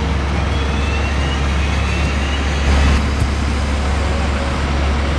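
Steady low rumble of a parked jet airliner, with a faint whine rising in pitch over the first couple of seconds.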